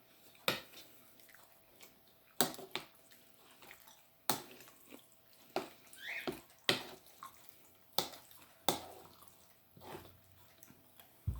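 Close-up eating sounds: a series of sharp, wet clicks, about one every one to two seconds, with a short rising squeak about halfway through.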